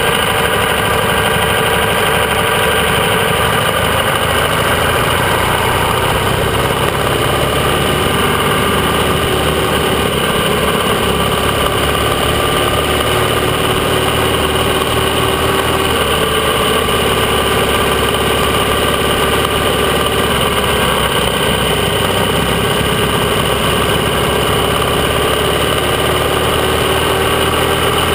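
AJS 650 CSR parallel-twin motorcycle engine running steadily under way, its note drifting gently up and down with the throttle.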